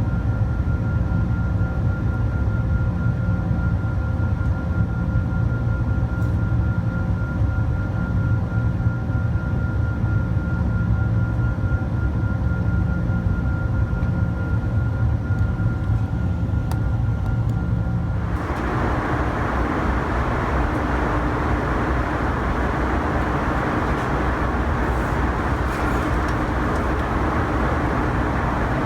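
Boeing 747-400 cabin noise: a steady drone with several constant whining tones from the engines. About 18 seconds in, the tones vanish at once and a louder, even rush of airflow noise takes over.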